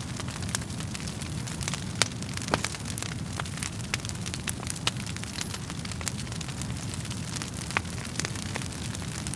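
Wood fire crackling in a fireplace: a steady low rumble of flames under irregular sharp pops and snaps of burning wood, with one louder pop about two seconds in.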